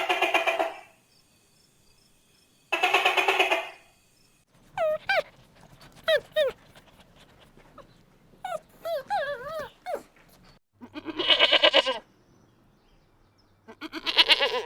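Farm animals calling: four loud, short, bleat-like calls, with quieter, higher calls that wobble up and down in pitch between them.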